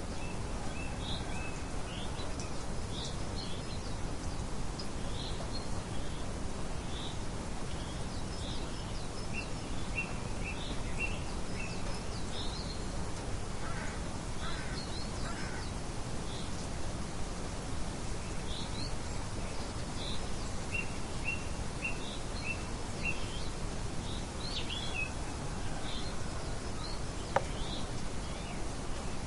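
Songbirds chirping, many short calls, over a steady background hiss of outdoor ambience; a single sharp click near the end.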